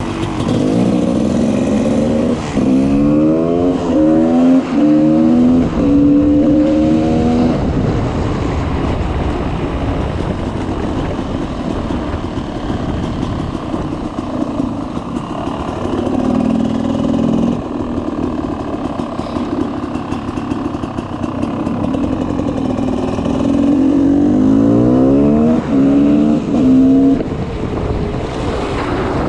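2004 GasGas EC 300 two-stroke engine with an FMF Powercore 2 exhaust, pulling up through the gears twice: the pitch rises and drops at each shift, with steadier running in between.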